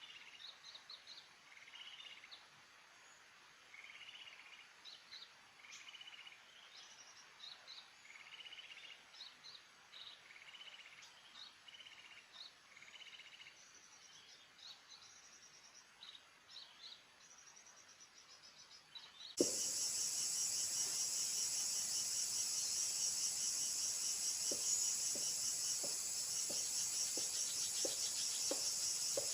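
A small bird repeating short, high chirps about once a second, faint. About two-thirds of the way through, the sound cuts abruptly to a louder, steady insect chorus with a fast pulsing trill.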